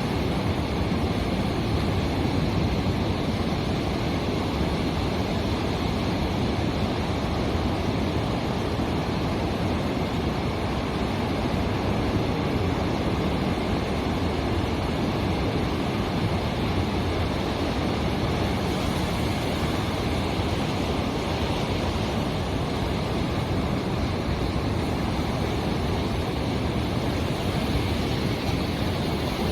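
Ocean surf on a beach: a steady, unbroken rush of breaking waves, heaviest in the low end.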